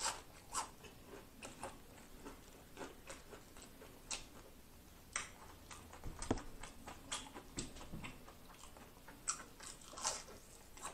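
A person chewing fried onion rings with wet mouth clicks and soft crunches, several a second, and one sharper crunch about six seconds in.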